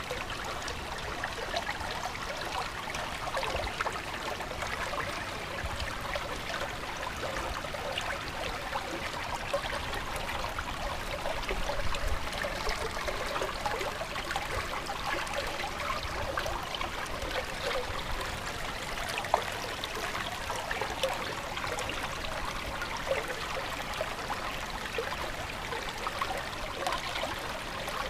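Stream water flowing and trickling steadily, a continuous babble dotted with many small splashes.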